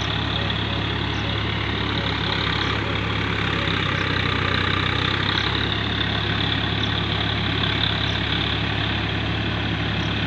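A steady low mechanical hum, like an idling engine, with an even high-pitched hiss above it that does not change.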